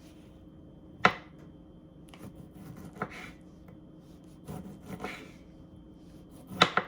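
Knocks and scrapes of kitchen things handled on a wooden cutting board. There is a sharp knock about a second in, softer knocks with rubbing around three and five seconds, and a louder double knock near the end.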